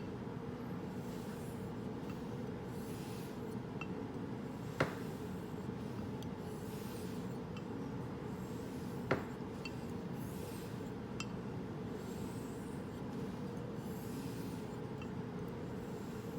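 Straight razor blade drawn in strokes over a wet sharpening stone: a soft, hissy scrape about every one to two seconds. Two sharp clicks, one about five seconds in and one about nine seconds in, stand out as the loudest sounds.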